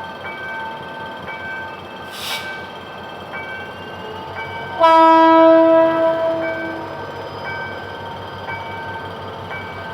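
Air horn of a GM GT22CW-2 diesel-electric locomotive sounding one steady blast of about two seconds, starting about halfway through. Under it, a level-crossing warning bell chimes two notes about once a second, with a brief hiss a couple of seconds in.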